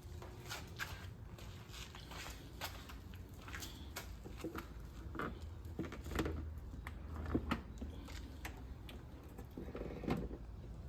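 Faint handling noises: scattered light clicks, taps and rustles at irregular times over a low steady hum.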